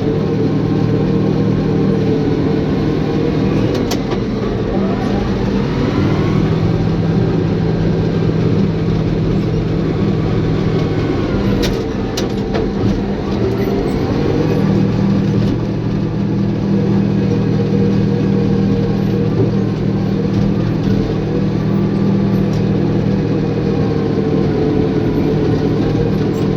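Caterpillar bulldozer's diesel engine running steadily, its pitch rising and falling a couple of times as the load changes, with a sharp clank about four seconds in and another about twelve seconds in.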